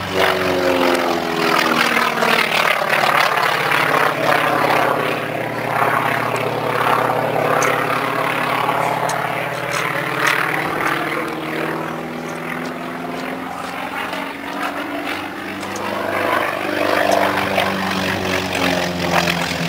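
Radial-engined North American T-28 Fennec trainers flying past. The engine note falls in pitch early on as they pass, then rises again near the end as they come back in.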